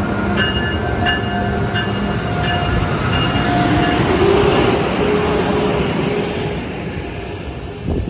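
Amtrak Acela Express electric trainset rolling past along the platform, its running noise swelling to a peak as the power car goes by and then easing off as the coaches follow. A high ringing tone repeats about every 0.7 seconds through the first half, a lower steady tone rises in the middle, and there is a short thump near the end.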